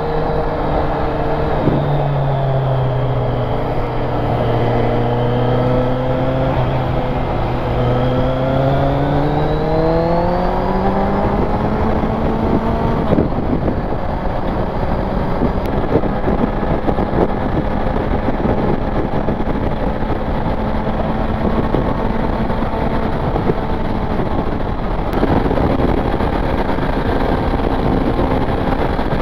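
Inline-four sport motorcycle engine with heavy wind and road rush. The engine note drops suddenly about two seconds in and holds steady. From about eight seconds it climbs smoothly as the bike accelerates, then settles into a steady cruise.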